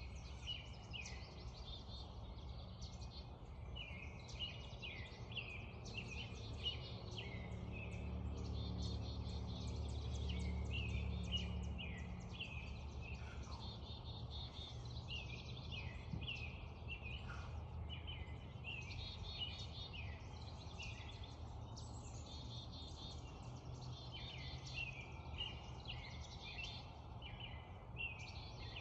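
Spring dawn chorus: many birds singing over each other in quick chirps and trills. A steady low rumble runs underneath and grows louder for a few seconds about a third of the way in.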